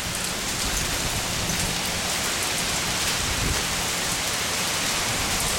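Heavy rain falling hard on a wet concrete driveway and street, a steady even hiss.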